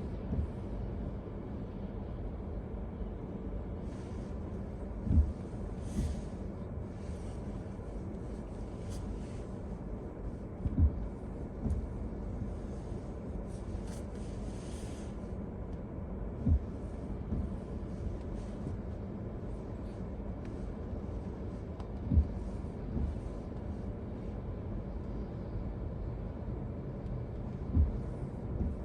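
Steady vehicle rumble with a short low thump repeating about every five and a half seconds.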